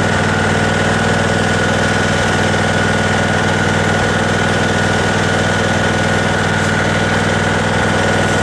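Tractor engine running steadily at an even speed, with a steady high whine over it.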